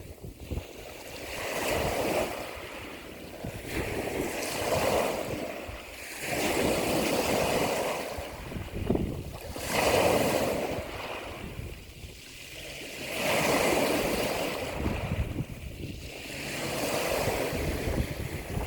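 Ocean waves breaking and washing in, in slow surges every three to four seconds that swell and fall away.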